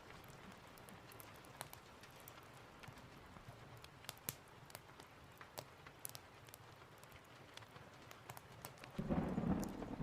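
Steady rain with scattered sharp crackles and pops of a log fire. About nine seconds in, a loud low rumble of thunder sets in.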